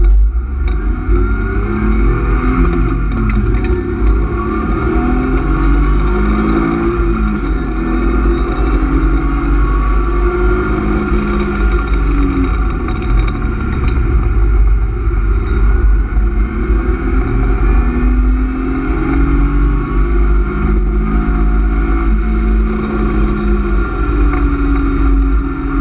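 BMW E36 328is 2.8-litre straight-six with a cold air intake and M50 intake manifold, heard from inside the cabin, revving up through the gears as the car accelerates onto the track. The pitch then rises and falls as it holds speed around the circuit, over a steady low road rumble.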